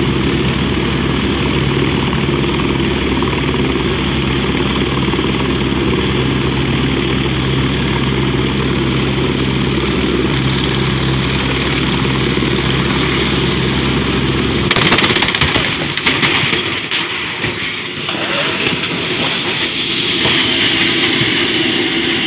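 Helicopter rotor and engine drone running steadily, then about 15 seconds in a burst of sharp cracks as the drone cuts out, in keeping with the helicopter crashing. A rushing noise and a faint wavering high whine follow.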